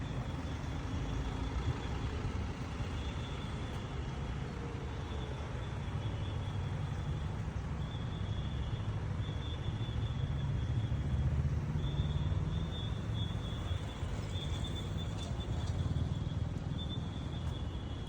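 Steady low rumble of road traffic, with a thin high-pitched tone that comes and goes.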